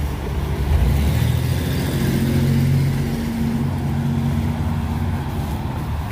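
Motor vehicle engine running close by: a steady low hum with a few small shifts in pitch, over street noise.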